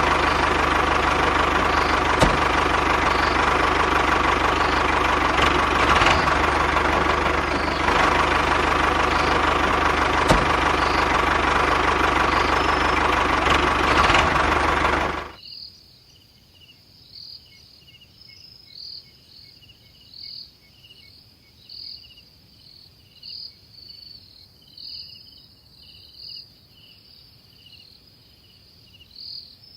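Mini tractor's motor running steadily, then cutting off suddenly about halfway through. Crickets then chirp in a regular pulse.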